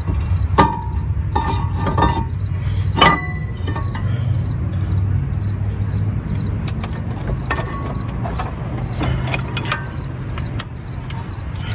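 Scattered metal clinks and knocks from brake parts being handled and fitted on the rear hub, the loudest about three seconds in. Under them run a steady low hum and crickets chirping in a fast, even rhythm.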